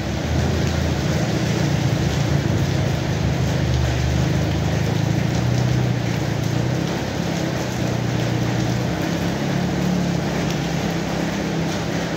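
Steady heavy rain, rising in at the very start and then holding even, with a low rumble underneath.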